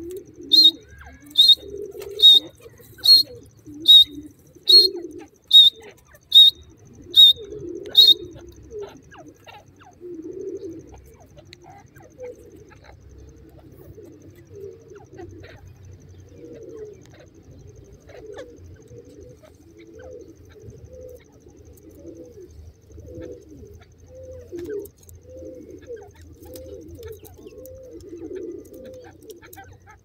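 Birds calling: a sharp, high call repeated about ten times, evenly spaced under a second apart, then stopping about eight seconds in. Low, soft cooing calls repeat throughout underneath.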